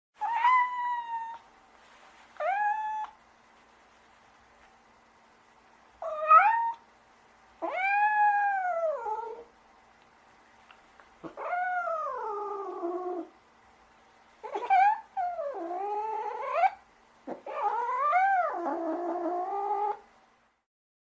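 Domestic cat meowing repeatedly, about seven meows with short pauses between them; several are long drawn-out calls that rise and then fall in pitch.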